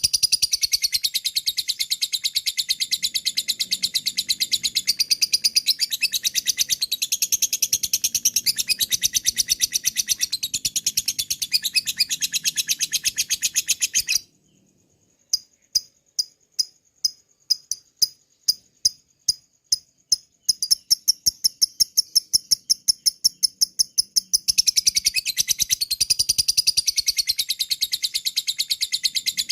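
Lovebird calling ngekek: a long, very fast, high-pitched chattering trill. About halfway it breaks off for a second, then gives single sharp ticks (ngetik) that come faster and faster and run into a rapid even series, before the long chattering trill starts again near the end.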